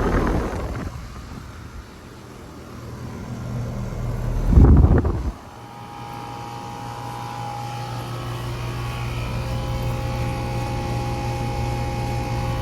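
Outdoor central air-conditioner condenser unit running: a steady hum with a few fixed tones from the compressor and fan. Before it settles in, a loud rushing noise rises and then cuts off abruptly about five seconds in.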